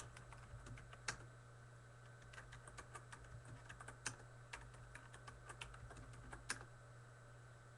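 Faint typing on a computer keyboard: irregular keystrokes with a few sharper clicks, over a steady low electrical hum.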